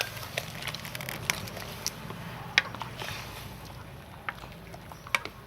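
Cooking sounds: a few sharp clicks and small knocks, irregularly spaced, over a low steady rumble.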